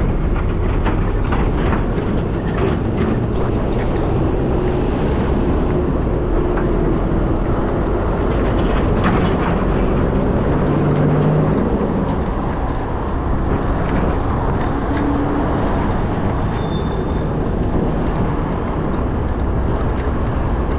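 Steady city road traffic around a moving bicycle: a continuous low rumble of passing motor vehicles, with a brief high tone about two-thirds of the way through.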